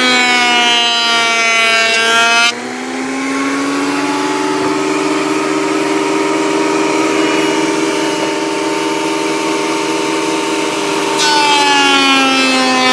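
Craftsman benchtop wood planer running with a high, pitched motor whine, a shop vac running alongside. A board goes through from about two and a half seconds in until near the end: the sound drops abruptly in level and hiss, the whine shifts to a steady lower tone, then the original whine and hiss come back as the cut ends.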